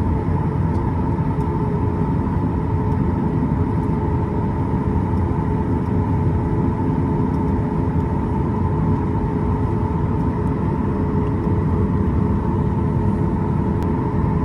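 Boeing 737-8 MAX cabin noise: the CFM LEAP-1B engines and airflow make a steady low rumble with a constant hum, holding at the same level throughout.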